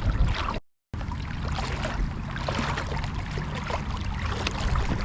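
Flowing river water with trickling and splashing, and wind rumbling on the microphone. The sound cuts out completely for a moment about half a second in.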